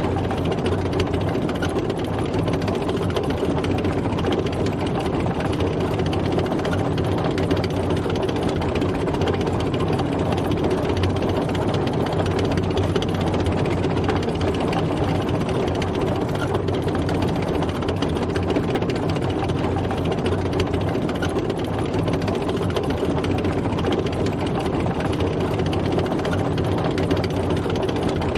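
Tank driving, its engine running steadily at an even pitch.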